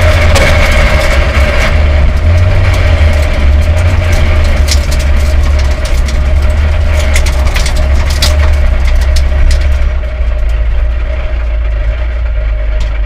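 A Ford Escort Mk2 rally car's Connaught Warrior 2.4 four-cylinder engine running at low, steady revs, heard from inside the cabin as the car rolls along a gravel road. Scattered sharp clicks sound over it and thin out after about ten seconds.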